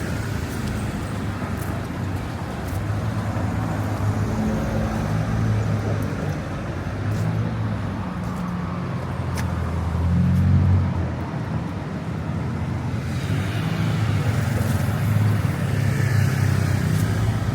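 Street traffic: vehicle engines running continuously, with one passing louder about ten seconds in.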